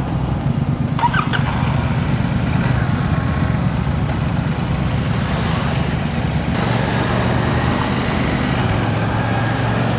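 Royal Enfield Classic motorcycle running steadily under way on a test ride, its low engine rumble mixed with road and traffic noise.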